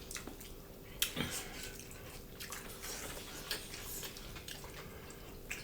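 Soft, wet eating sounds from a meal of beef curry: chewing and small scattered clicks, with one sharper click about a second in, over a faint steady hum.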